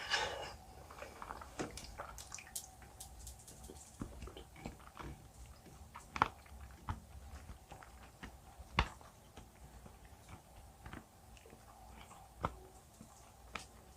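A person chewing gummy jelly close to the microphone: soft, wet mouth clicks and smacks throughout, with a burst at the start and a few louder bites about six, nine and twelve seconds in.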